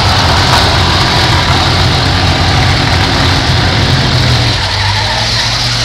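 Demolition derby cars' engines running with a loud, steady low rumble and a rough exhaust noise over it.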